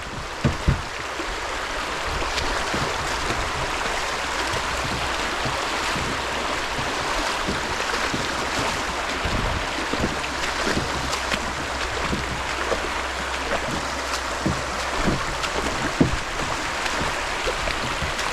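Steady rush of shallow creek water running over stones around a kayak, with scattered short knocks, the sharpest about a second in and near the end.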